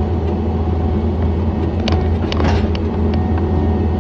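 John Deere 317 skid steer loader's engine running steadily, with a few short knocks and rattles about two seconds in.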